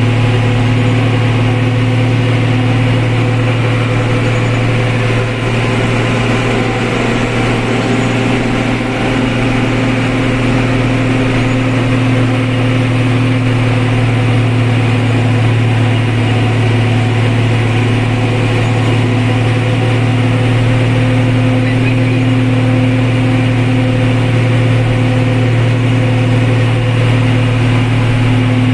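Vehicle engine running loud and close at a steady, unchanging speed: a low drone with no clear revving up or down.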